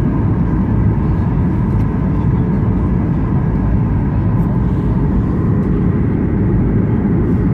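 Steady cabin noise of an airliner in flight: an even, low roar of engines and airflow, with a faint steady hum.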